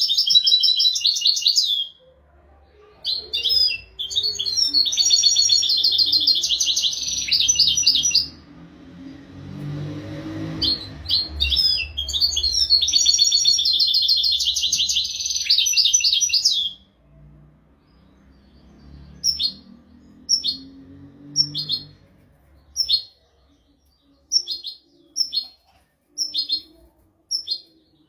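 European goldfinch singing: long, fast twittering song phrases, three in a row, then only short single call notes about once a second. A faint low rumble sits under the song near the middle.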